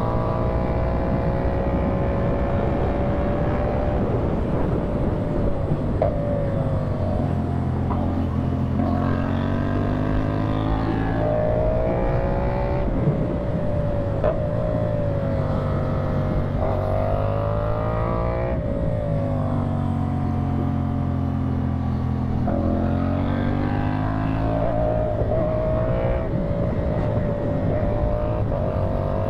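CFMOTO 450SR parallel-twin motorcycle engine through a slip-on exhaust, pulling up through the gears. Its pitch climbs and drops back sharply at each shift, settles lower for a few seconds around the middle, then climbs again.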